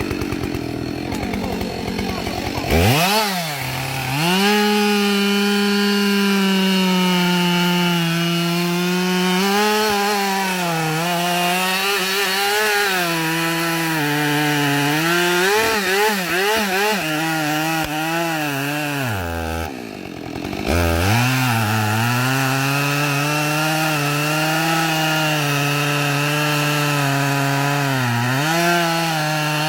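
Two-stroke chainsaw revving up to full throttle about three seconds in and cutting wood, its engine note dipping now and then under the load of the cut. About two-thirds of the way through it drops back for a moment, then revs up again.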